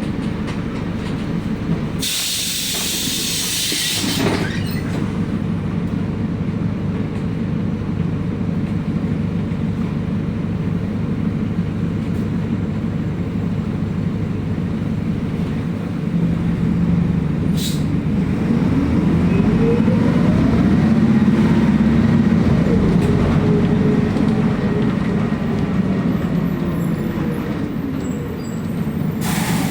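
City bus ride: the bus's diesel engine runs steadily under a rumble of road noise. A loud burst of air hiss comes about two seconds in and lasts roughly two seconds, the kind of hiss an air brake or door lets out. In the second half a whine rises and then falls as the engine works harder and the bus gathers speed.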